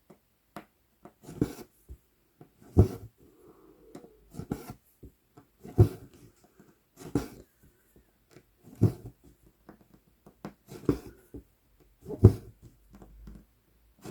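Needle being pushed through 11-count Aida cloth and embroidery floss drawn through, in a steady stitching rhythm: a soft pop with a short pull roughly every one and a half seconds.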